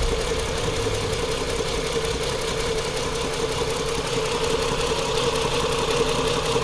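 Chrysler 2.7-litre V6 engine idling steadily while misfiring on cylinder 2, whose ignition coil connector clip has come off.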